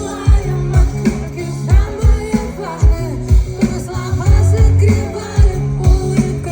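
Live pop-rock band playing, with a female lead vocal over a steady kick-drum beat and bass.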